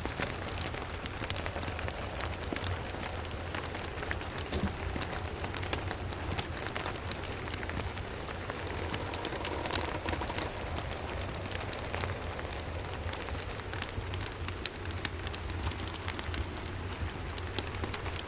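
Steady rain falling, with a dense patter of small sharp clicks and a steady low rumble underneath.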